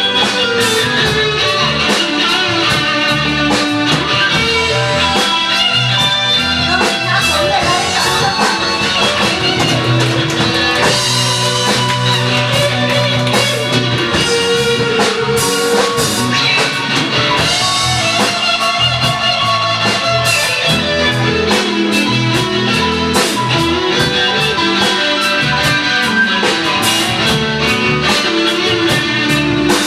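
Live band playing rock music, with guitar over a drum kit.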